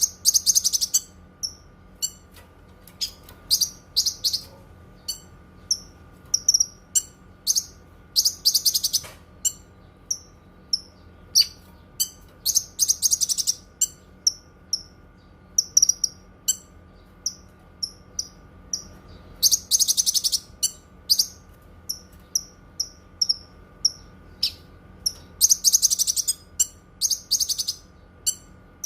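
Cucak kinoi songbird singing: sharp, high single chirps repeated every half second or so, broken several times by rapid twittering phrases about a second long.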